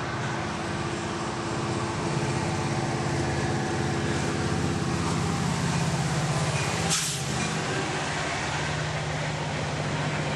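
Diesel locomotive running steadily with a low engine drone, and a short sharp hiss about seven seconds in.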